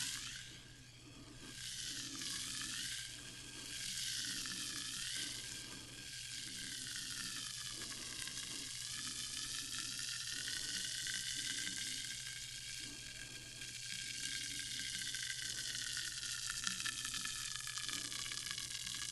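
Sparkling water fizzing steadily, a dense crackle of bursting bubbles with a hollow tone that slowly sweeps up and down.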